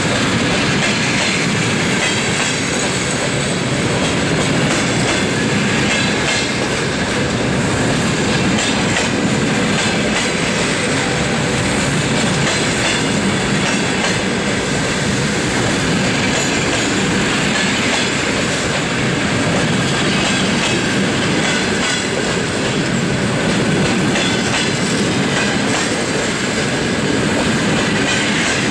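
Passenger coaches of a departing train rolling steadily past, their wheels clattering over the rail joints with a continuous rumble.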